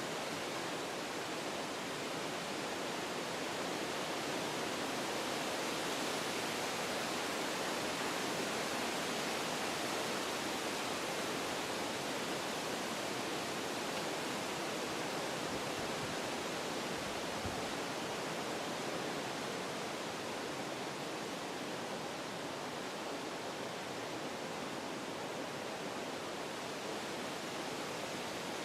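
Wind blowing through forest trees: a steady rushing of leaves and branches, growing a little stronger for a few seconds near the middle.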